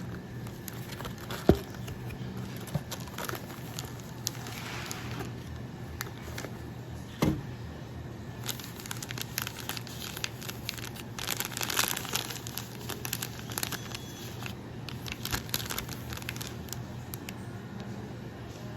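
Crinkling and rustling of drip-coffee packaging being handled and opened, densest in the middle of the stretch and tapering off near the end. Two sharp knocks come early, about a second and a half in and again around seven seconds.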